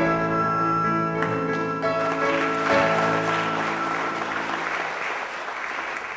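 Guitar-led music plays its last held chord, which rings and fades away over the next few seconds. An audience starts applauding about two seconds in, and the clapping carries on after the music has died out.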